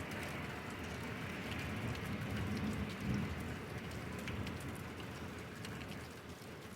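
Rain falling, a steady hiss with scattered drops ticking sharply on a hard surface. A low rumble underneath eases off near the end.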